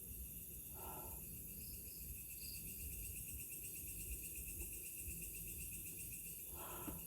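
Night insects, crickets among them, chirring steadily at a high, even pitch. Two short, faint lower sounds break in, one about a second in and one near the end.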